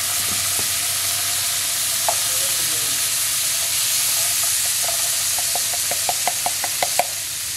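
Drained canned black beans sizzling in melted butter in a hot pan, a steady hiss. Near the end comes a quick run of light taps, about five a second.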